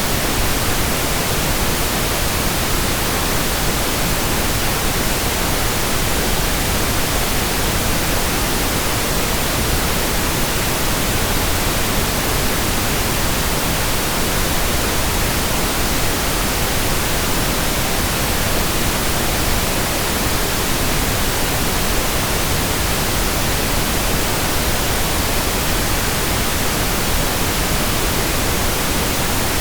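Steady, unbroken pink noise: an even hiss spread across the whole range of pitch, without lines or changes.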